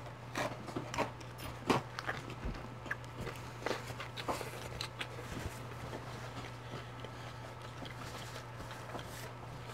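Close-up chewing and biting of a burger with lettuce: irregular wet mouth clicks and soft crunches, busiest in the first few seconds. A steady low hum runs underneath.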